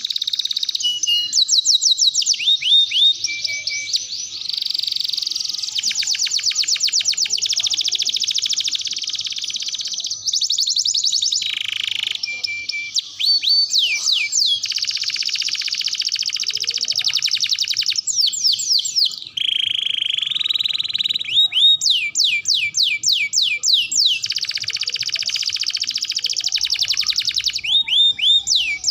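Domestic canary singing a long, continuous song of rapid trills, rolls and repeated falling sweeps, changing phrase every second or two.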